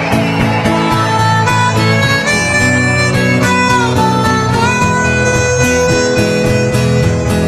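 Instrumental break of a country-folk song: a harmonica plays a held, bending melody over strummed acoustic guitar, with no singing.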